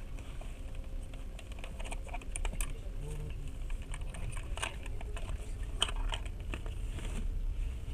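Passenger train running, a steady low rumble heard from inside the carriage, with many light, irregular clicks close by.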